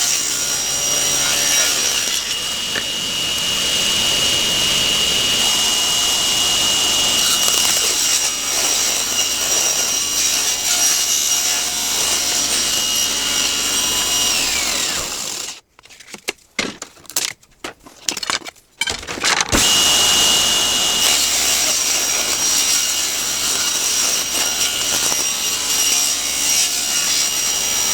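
Table saw running and ripping wood with a steady high motor whine. It winds down about halfway through; a few knocks sound in a short quiet gap, then the saw starts again and winds down at the end.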